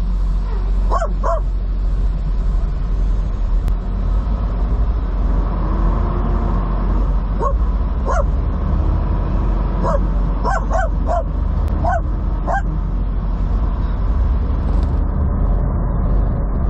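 A dog barking in short yips, a pair near the start and a quick run of them in the middle, over the steady low drone of the semi truck's diesel engine in the cab.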